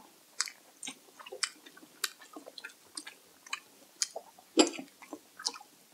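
Close-up chewing and mouth sounds of someone eating, a scatter of irregular wet smacks and clicks with one louder smack about four and a half seconds in.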